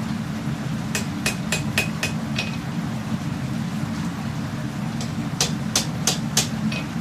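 Hammer blows on steel at the anvil, forging a katana blade: two quick runs of about six strikes each, roughly three to four a second, each with a short metallic ring. A steady low hum runs underneath.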